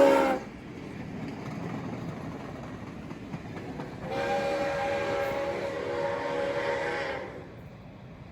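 Train sounding a multi-tone chime signal: a loud blast cuts off about half a second in, and a second blast of about three seconds starts about four seconds in, over the steady running noise of the passing train.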